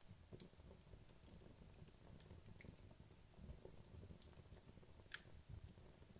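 Wood logs burning in a fireplace, faintly: a soft low flutter of flames with scattered small crackles and pops, and one sharper pop about five seconds in.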